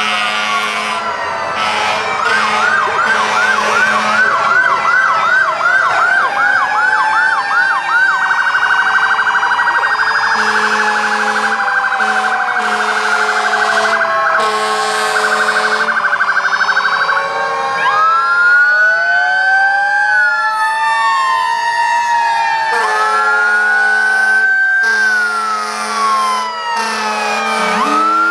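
Several fire truck sirens sounding together: long rising and falling wails, a fast yelp about two seconds in, then a rapid warble lasting several seconds. Loud horn blasts come in repeated bursts over the sirens.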